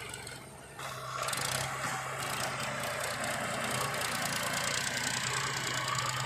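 Diesel engine of heavy machinery running at a steady pitch; it grows louder about a second in and then holds level.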